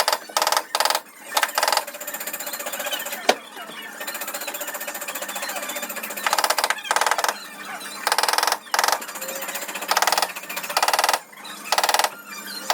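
Power tool firing in repeated short bursts of rapid hammering, about half a second to a second each, with a steadier mechanical noise between the bursts and one sharp knock a few seconds in.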